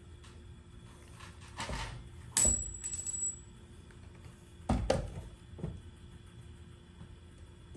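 Metal parts or tools knocking and clinking, about five separate hits; one a little past two seconds in rings briefly with a high tone like struck steel, and a heavier knock comes near five seconds.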